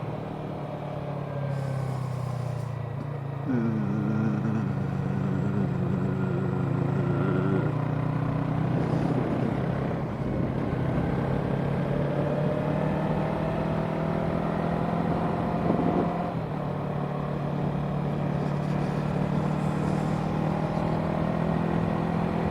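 Parallel-twin sport motorcycle engine running under way, its note shifting a few times as the revs change, with steady wind rush over it.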